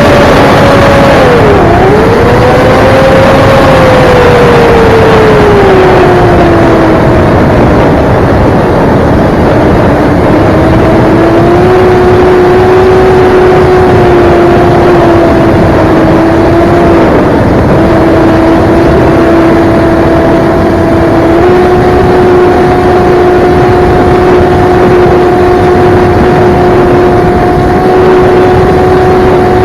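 RCX 2207.5 1700kv brushless motor spinning a Gemfan Flash 7042 seven-inch propeller on 4S, a loud steady whine. It starts high, drops in pitch over the first several seconds, then holds nearly level with a few small steps up and down in speed.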